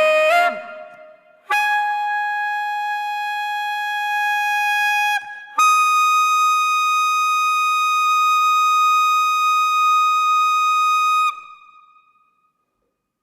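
Music: a solo wind instrument holds one long note, then a second, higher long note, and stops about eleven seconds in.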